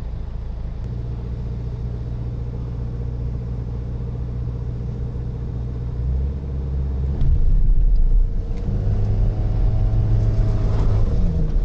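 Vehicle engine running steadily at low revs, then revving up about seven seconds in and holding higher revs under load as it pulls on a tow hook.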